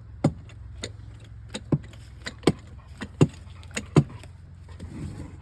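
Jack being pumped to lift a tractor: a run of sharp metal clicks and knocks, the loudest about every three-quarters of a second, stopping about four seconds in, over a steady low hum.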